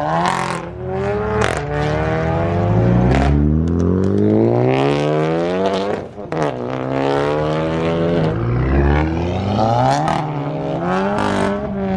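Car engine accelerating hard through the gears, its pitch climbing for several seconds, dropping at a gear shift about halfway, then climbing again.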